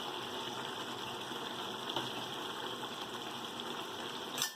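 Steady sizzling of onion and tomato masala frying in a pan, with a short click near the end.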